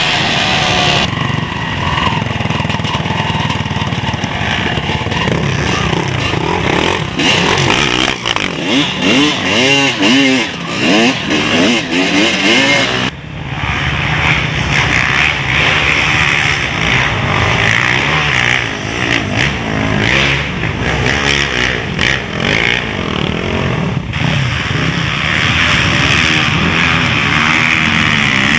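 Motocross motorcycle engines revving and running hard, the pitch rising and falling again and again as the throttle opens and closes through gear changes. The sound changes abruptly about thirteen seconds in.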